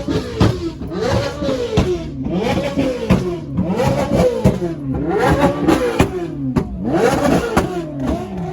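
Car engine revved over and over at a car meet, its pitch climbing and dropping back roughly once a second.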